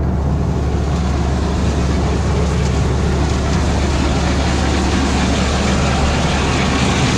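John Deere 4430 diesel tractor running steadily under load while driving a feed mill that is grinding hay, cottonseed and grain sorghum: a constant, loud mix of deep engine drone and grinding noise.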